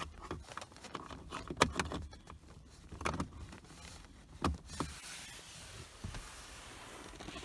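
Scattered plastic clicks, knocks and rustling of a cable plug being handled and pushed into a car's OBD connector. A faint steady hiss follows from about five seconds in.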